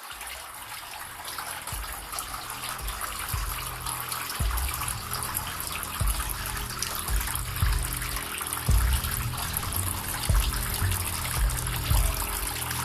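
Water fountain splashing and trickling steadily, with irregular low rumbles mixed in.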